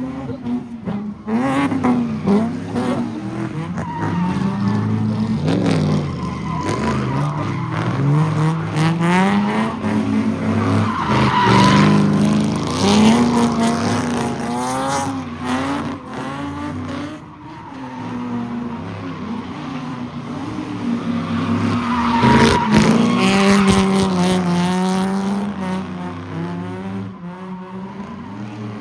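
Cars spinning in a car pit: engines revving up and down over and over, with tires squealing and skidding at several points.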